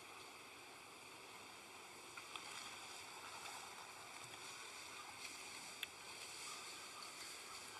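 Faint room tone: a steady hiss with a few small clicks.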